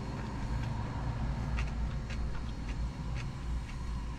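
Mouth and chewing sounds: a handful of sharp, irregular clicks over a steady low rumble.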